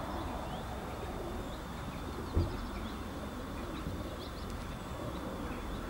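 Small birds chirping now and then over a steady low rumble, with one dull thump about two and a half seconds in.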